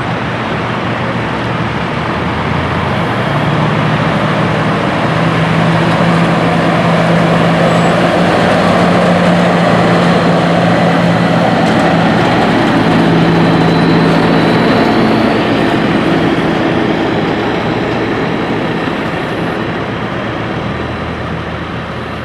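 Peterbilt 389 semi truck's diesel engine running as the truck drives, its steady drone swelling to a peak midway and fading slowly toward the end.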